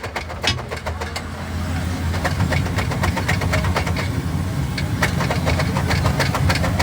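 An engine running, its low rumble swelling about a second and a half in and then holding steady, with scattered clicks and clinks over it.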